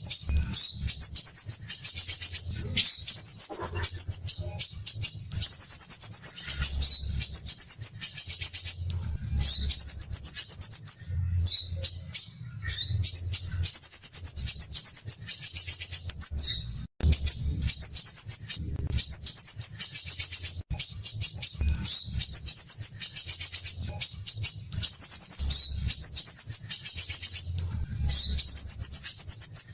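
Crimson sunbird (sepah raja) singing its rapid, dense, harsh trill (besetan rapat) in high-pitched bursts of half a second to a second, repeated with short gaps. A faint low rumble runs underneath.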